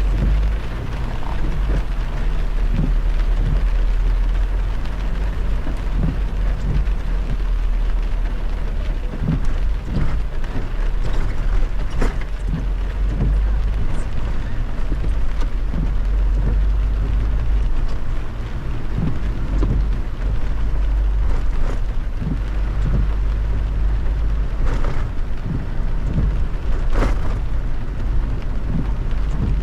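Heavy rain on a moving car, with a steady deep rumble of road and driving noise and many scattered sharp drop hits throughout.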